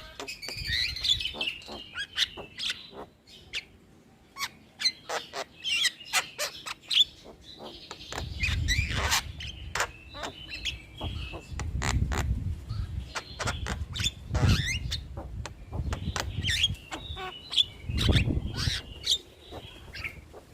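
Javan myna singing a chattering song: rapid sharp clicks and harsh notes mixed with whistled phrases. Low thuds come and go through the second half.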